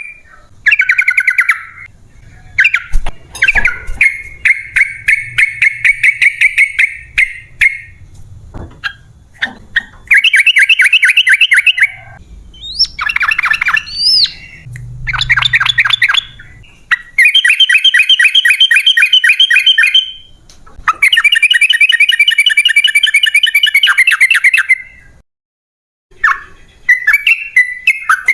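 Yellow-vented bulbul (trucukan) singing loud, long runs of rapid chattering notes, each run lasting a few seconds with short pauses between.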